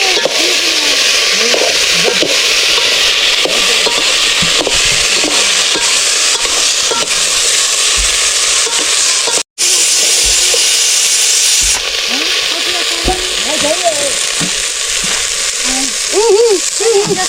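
Vegetables frying in hot oil in a pan, a steady loud sizzle with stirring; it drops out for a moment about halfway through and runs a little quieter afterwards.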